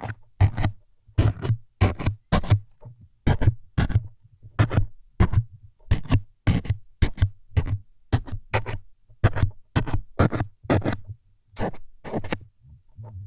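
Close-miked ASMR stabbing sounds meant as needles jabbing in: short scratchy jabs, each with a soft low thud, coming irregularly at about two or three a second.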